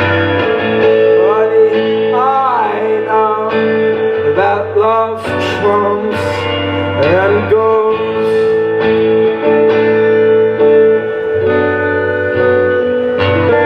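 Live music with electric guitar holding sustained notes, and a few wavering, gliding notes in the middle.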